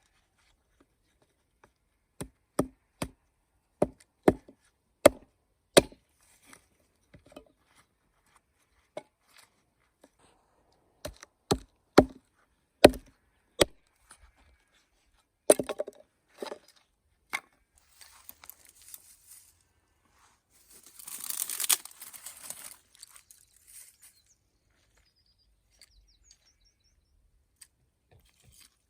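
Wood being chopped with sharp single strikes, in groups of several about half a second to a second apart. Near the end comes a longer stretch of scraping, rustling noise.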